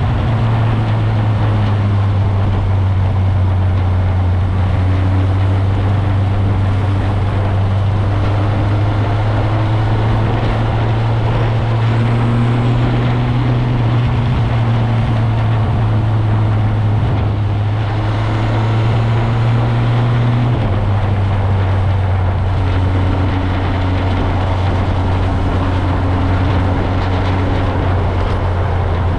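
Motorcycle engine running steadily under way, over a constant rush of wind noise. The engine note steps lower about two-thirds of the way through.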